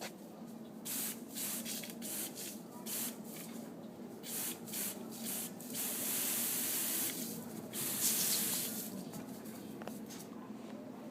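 Spraying water hissing in a run of short spurts, then a steadier spray for about two seconds past the middle, with one more spurt before it dies away near the end.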